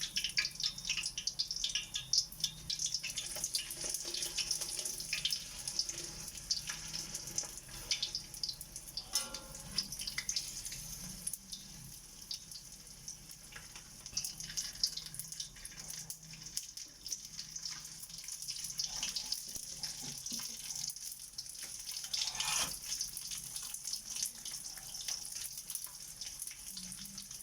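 Dried fish (danggit) frying in hot oil in a pan, a steady sizzle with many small scattered crackles.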